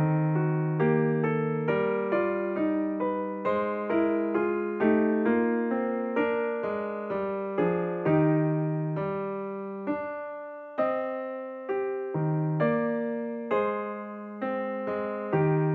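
Background piano music: a slow melody over held chords, each note struck and fading away.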